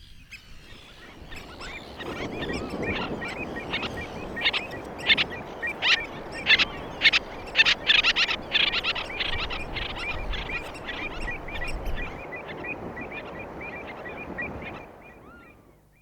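Common terns giving their social, conversational calls: a busy run of short, harsh calls, with a burst of sharp, louder notes in the middle, over steady background noise. The recording fades in at the start and fades out near the end.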